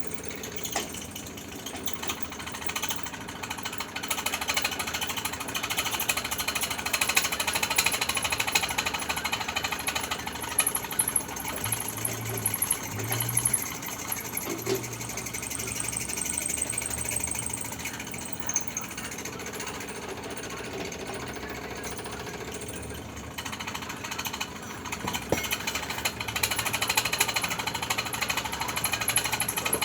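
Electric arc welding on steel foundation bolts: a continuous dense crackle of the arc, easing briefly a little past the middle before picking up again.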